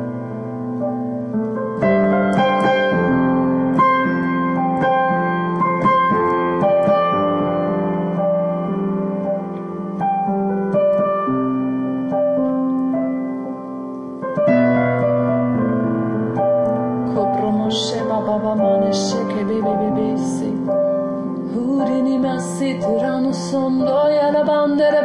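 Solo piano playing slow, sustained chords that change every couple of seconds, in an improvised worship style.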